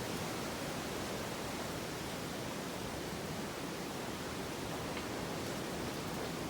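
Steady rushing outdoor noise with no distinct events, such as wind or distant surf heard on a forest trail.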